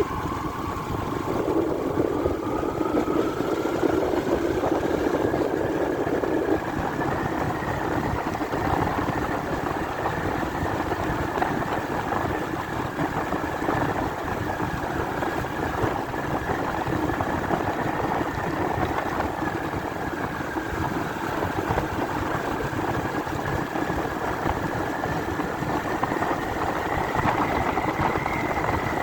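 Motorbike engine running steadily on the ride, its note rising over the first several seconds, holding, then rising a little again near the end.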